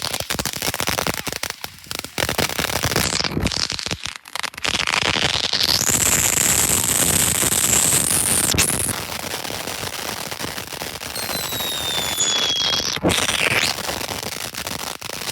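Consumer firework cakes firing their finale: a dense barrage of bangs and crackling, with a rising whistle about four to five seconds in that holds for a few seconds, then a few falling whistles and a sharp bang near the end.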